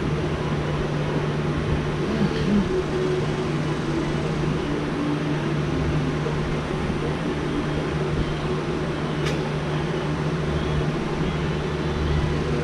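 Electric drill with a 1/4-inch bit running steadily while boring a bolt hole for the fuel sump into the steel fuel tank, a constant motor hum, with one sharp click about nine seconds in.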